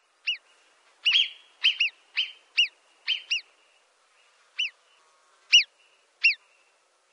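A bird calling repeatedly: about a dozen short, clear chirps that rise and then fall in pitch, coming in quick runs with a pause of about a second in the middle.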